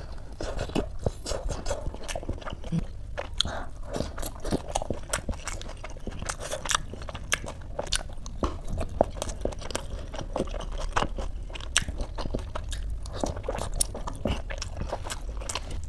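Close-miked ASMR eating: biting into steamed dumplings and chewing them, with many sharp wet mouth clicks and smacks.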